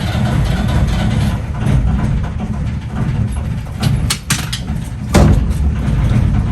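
A narrowboat's 1.5-litre BMC diesel engine running at a steady idle, just started. A few sharp knocks come over it between about four and five seconds in, the loudest just after five seconds.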